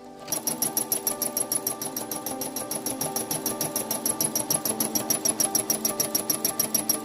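Brother SE400 embroidery machine starting up and stitching out an embroidery design: a rapid, even needle clatter over a steady motor hum, building up in the first second and then holding steady.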